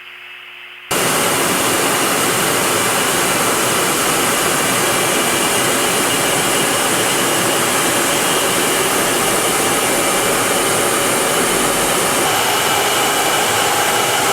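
F-35A Lightning II's Pratt & Whitney F135 jet engine, loud and steady, cutting in suddenly about a second in.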